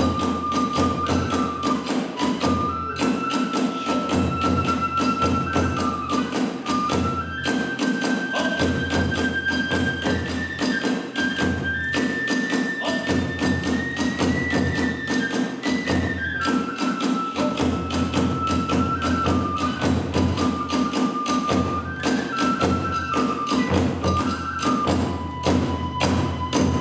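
Kagura hayashi music: a bamboo flute plays a held, stepping melody that climbs higher in the middle and falls back, over fast, dense drum and hand-cymbal strokes.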